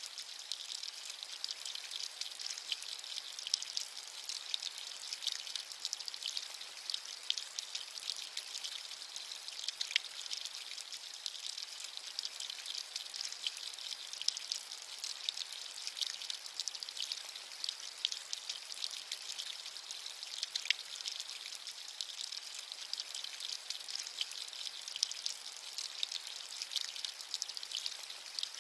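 Steady rain: a dense, high-pitched hiss of many small drops pattering, with scattered slightly louder drop ticks and almost no low rumble.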